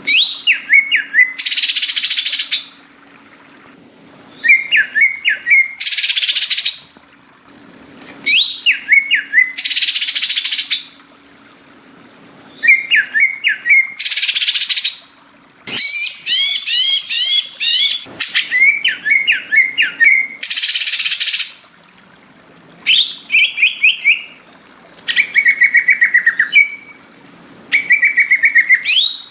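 Green leafbird (cucak ijo) singing in repeated short phrases of quick chirping, whistled notes, about every four seconds. Most phrases are followed by about a second of harsh hissing rasp. A faint steady low hum runs underneath.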